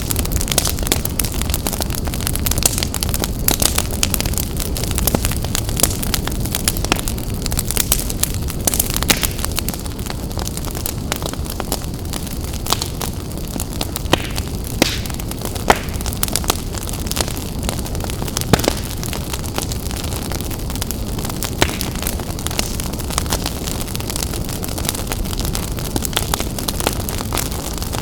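Wood fire burning in a fireplace: a steady low roar of the flames with frequent, irregular sharp crackles and pops.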